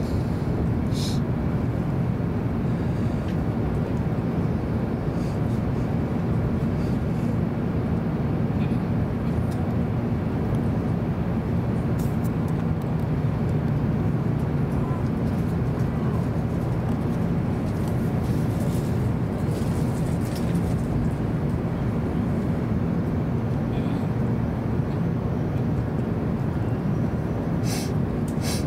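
Hokuriku Shinkansen train heard from inside the passenger cabin: a steady low rumble of running gear and cabin noise as the train pulls into a station, with a few faint clicks.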